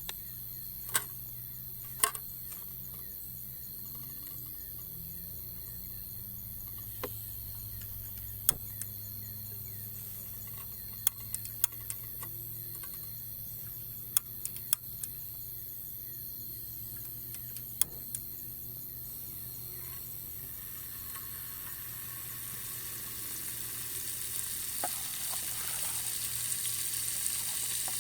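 Scattered sharp clicks and pops over a quiet background. From about twenty seconds in, a sizzling hiss like food frying in hot oil builds up and keeps getting louder.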